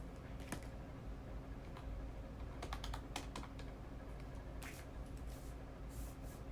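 Keys being tapped: a few single clicks, with a quick run of several taps around the middle, over a low steady hum.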